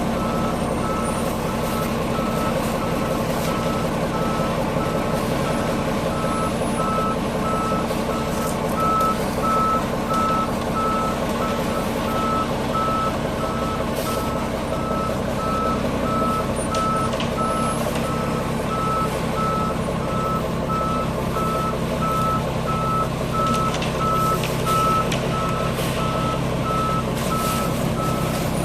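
Concrete mixer truck's reversing alarm beeping steadily at one pitch, over the truck's engine running.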